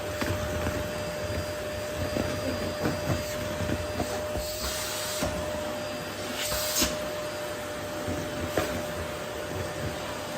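Vacuum cleaner running while picking up rose petals from a floor, with a steady motor whine and scattered small clicks and knocks. The rushing air grows louder and hissier twice, at about four and a half and about six and a half seconds in.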